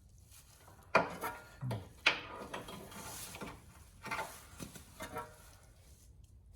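Hand tools clanking and scraping against metal car parts. There are two sharp clanks about one and two seconds in, then lighter knocks and clatter.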